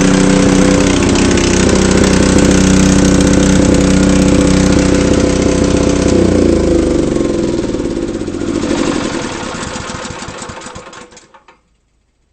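Honda HS-55 snowblower's single-cylinder four-stroke engine running steadily, then shut off about six seconds in: its pitch falls as it spins down and the sound fades out over the next few seconds.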